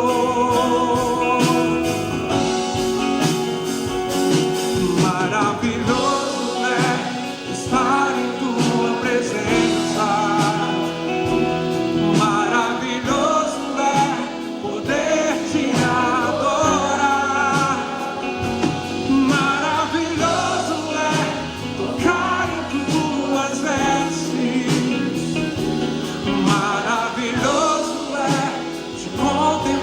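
Live gospel worship music: a band playing with a steady drum beat under a sung or melodic lead line.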